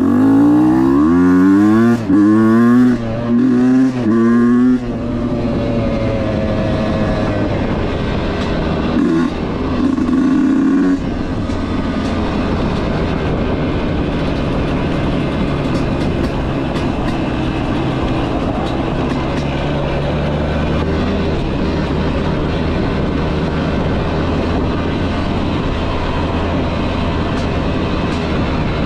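Husqvarna dirt bike engine pulling away hard, the revs climbing and dropping back at four or five quick upshifts in the first five seconds, then running steadily at riding speed.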